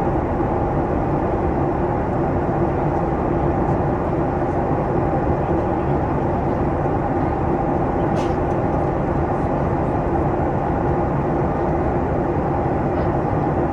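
Steady cabin noise inside a Boeing 737 MAX 8 airliner in flight: an even drone of engines and rushing air, with a couple of steady hums in it.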